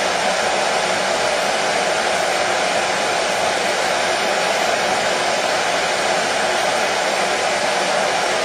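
Hair dryer blowing steadily, a constant rushing hiss with no change in pitch or level, played as soothing white noise for colicky babies.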